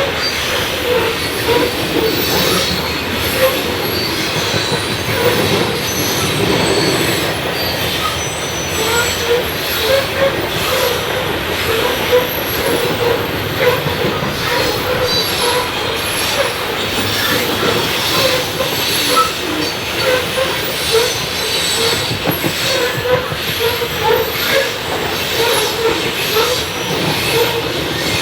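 Railroad cars rolling past close by, the wheels squealing on and off against the rails amid a steady rumble and clatter of knocks.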